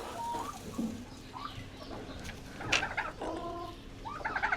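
Chickens clucking, with a few short calls scattered through and the loudest about three seconds in.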